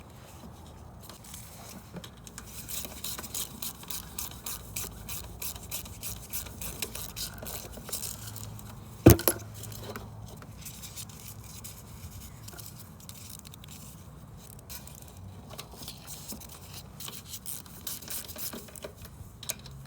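Small metal parts and tools being handled while a lawn mower carburettor is put back together: scattered light clicks, scrapes and rubbing, with one sharp knock about nine seconds in.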